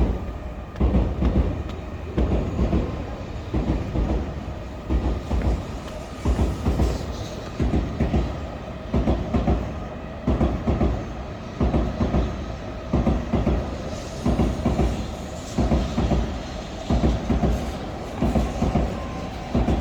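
A train passing close by, its wheels clattering over the rail joints in regular clusters of heavy knocks about once a second. The sound starts suddenly and is loud.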